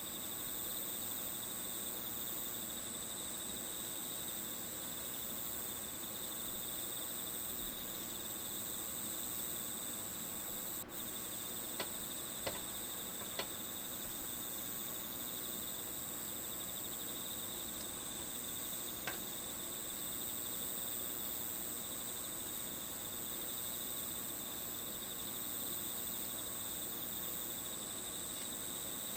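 Crickets chirping in a steady, continuous trill, with a few short sharp clicks around the middle.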